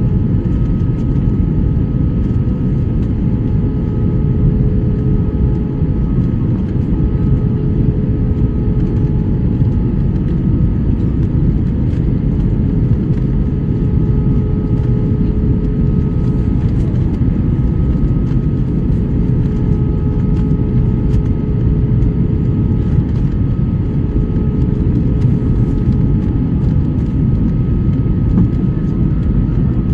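Airliner cabin noise during the descent to land: the steady rumble of the engines and rushing air, with a few steady hum tones on top.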